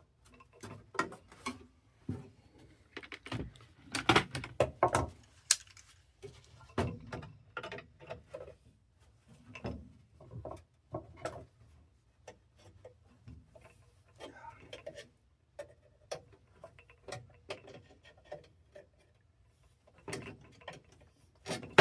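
Irregular clicks, taps and knocks of hand work on furnace parts, the sound of tools and metal pieces being handled while an inducer motor is fitted.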